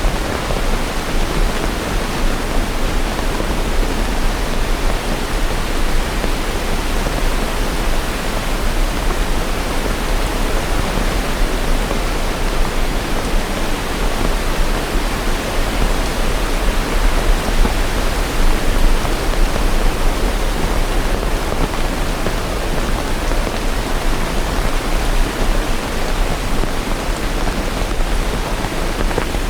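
Steady rain: a dense, even hiss with no breaks or single drops standing out.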